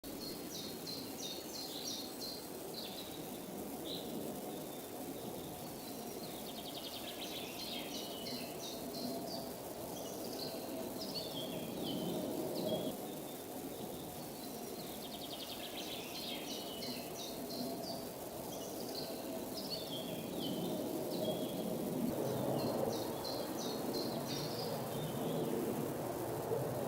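A small songbird singing a short phrase of quick high notes that falls in pitch, repeated four times, over a steady low background rumble.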